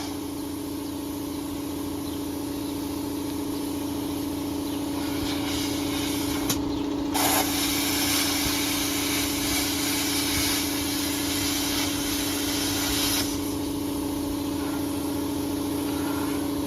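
Titanium 65 plasma cutter cutting through the truck cab's sheet metal: the air jet and arc hiss over a steady hum. The hiss swells about five seconds in, breaks off briefly near seven seconds, and dies away about thirteen seconds in.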